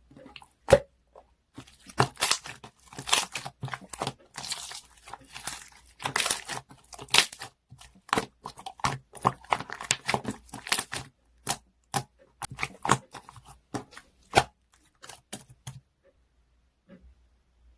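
Material being torn and crinkled in quick, irregular short bursts, sparser toward the end and stopping a little before the end.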